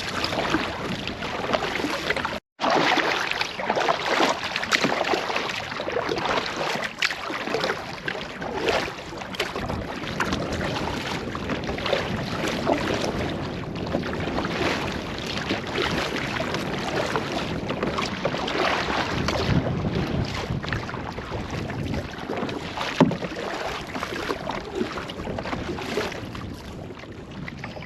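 Canoe paddling on a lake: paddle strokes and water splashing and lapping against the hull, with wind buffeting the microphone. The sound drops out for an instant about two and a half seconds in.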